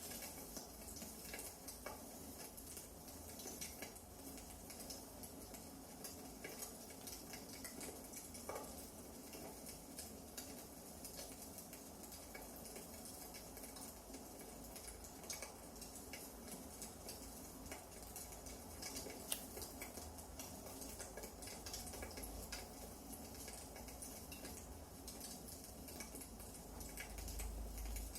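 Wood fire burning in a fireplace: faint irregular crackles and small pops over a soft steady hiss, with one sharper pop about two-thirds of the way through.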